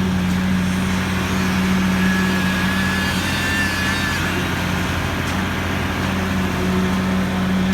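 Engine of a ready-mix concrete truck running steadily at a constant speed, a continuous low drone that neither rises nor falls.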